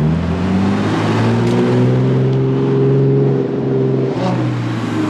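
A car engine running loud and close at low revs, its exhaust note rising a little and then easing off, with a brief dip about three and a half seconds in.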